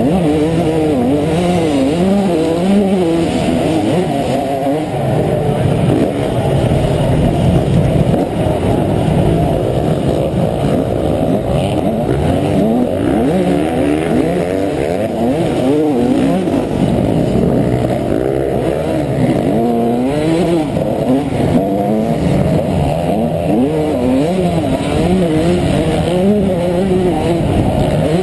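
Honda CR125 two-stroke single-cylinder motocross engine being ridden hard, its pitch climbing and dropping again and again with the throttle and gear changes.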